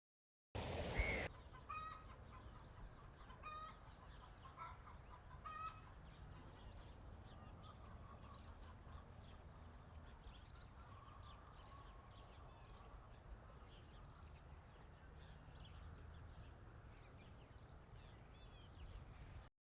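Faint farmyard ambience: chickens clucking, with many short calls scattered throughout over a steady low background rumble. A brief loud noise burst comes about half a second in.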